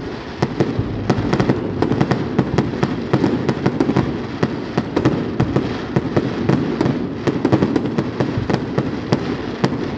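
Fireworks display in a dense barrage: many sharp cracks in quick succession from crackling shell bursts, over a continuous low rumble, without a pause.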